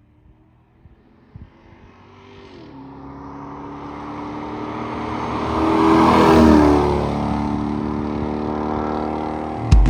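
Lexus SC400's 1UZ V8 through a straight-piped stainless cat-back exhaust, driving up and past: the exhaust note grows from faint to loud, peaks about six seconds in with its pitch dropping as it passes, then carries on steadily. Drum beats begin right at the end.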